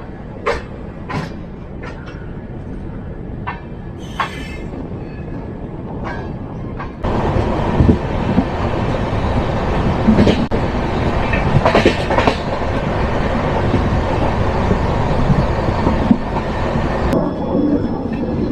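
Passenger train running on the track, with sharp wheel clacks over a low rumble. About seven seconds in, it jumps suddenly to a louder, steady rushing rumble.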